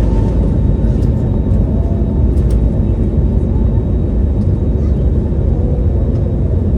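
Steady low rumble of an airliner's engines heard from inside the cabin, with a few faint clicks.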